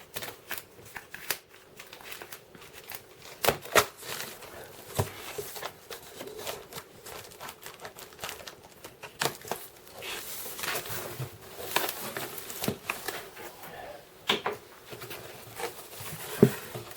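A parcel being unpacked by hand: packaging tearing and crinkling, with irregular clicks and knocks as the contents are handled.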